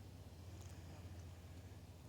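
Near silence: faint outdoor ambience with a steady low hum and one faint high chirp about half a second in.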